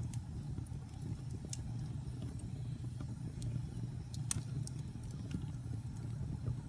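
Wood fire burning in a fireplace: a steady low rumble with scattered sharp crackles and pops, about half a dozen, the loudest a little past four seconds in.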